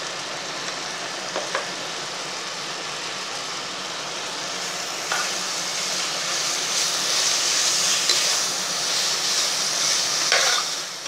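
Onion-tomato masala sizzling in a pressure cooker pan as coconut paste is spooned in. From about five seconds in, a metal spoon stirs through it with a few knocks against the pan, and the sizzle grows louder.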